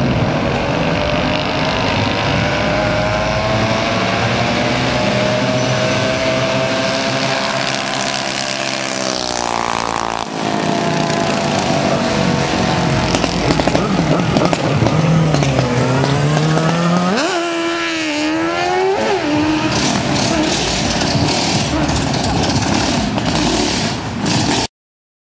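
Small minibike engines racing at high revs, their pitch sliding up and down as they rev and shift, climbing about ten seconds in and dipping then rising sharply a little past halfway. The sound cuts off abruptly just before the end.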